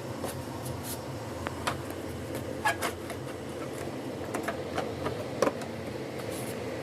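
A steady machine hum with a scatter of light clicks and taps, the sharpest a little under three seconds in and again about five and a half seconds in.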